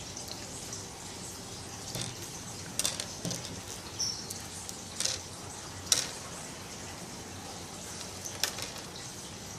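Light clicks and rustles of hands handling twine and beads while tying knots, scattered over a steady background hiss; the sharpest click comes about six seconds in.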